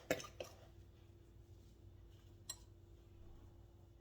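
A utensil clinking lightly against a bowl while mixing seasoned flour: a few clicks near the start and one more sharp click about two and a half seconds in, over a faint steady hum.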